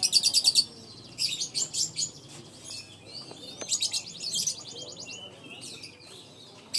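Lovebird chattering: quick runs of high-pitched chirps, with a fast, even trill about four seconds in, then sparser chirps.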